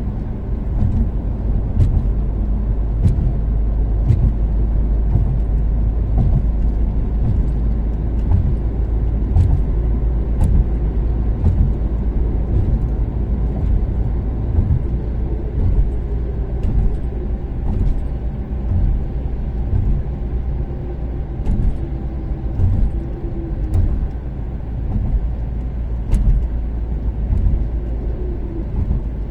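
Toyota Caldina's turbocharged 3S-GTE inline-four cruising at expressway speed, a steady engine drone that drifts slightly in pitch over a heavy low rumble of road noise. Short sharp knocks come every second or two.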